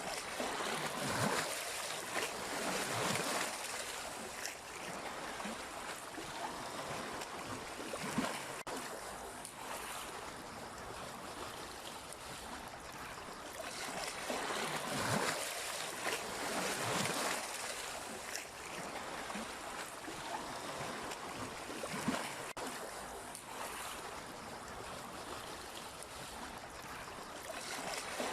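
Sea waves washing in and breaking, a steady wash of water swelling and easing every few seconds, with a couple of sharper splashes.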